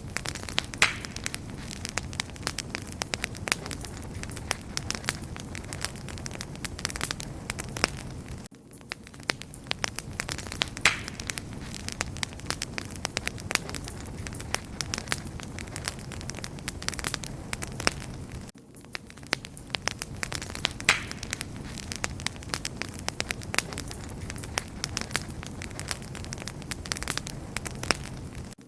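Wood fire burning with dense, irregular crackles and pops over a low steady rumble of flame. The same stretch seems to repeat about every ten seconds, with a brief dip where it starts over.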